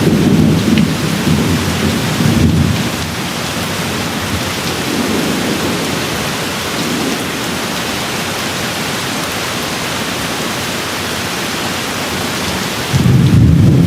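Steady rain with rolling thunder: a low thunder rumble fades out about three seconds in, leaving the rain alone, and another rumble starts suddenly near the end.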